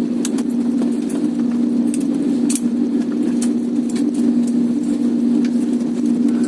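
Airliner cabin noise: a steady hum from the aircraft with scattered clicks and light rattles from the cabin fittings.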